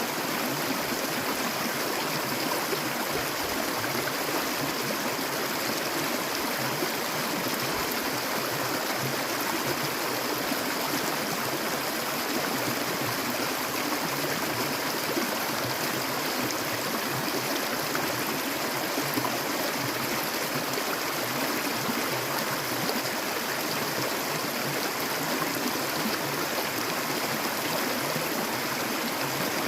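Clear water flowing steadily in a stream, an even, unbroken rush.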